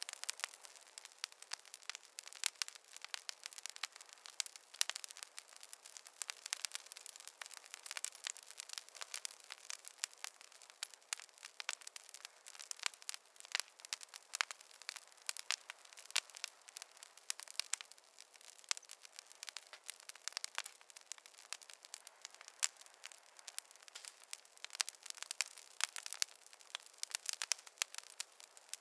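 Wood fire crackling: a dense, irregular stream of small sharp pops and snaps from burning logs over a soft hiss.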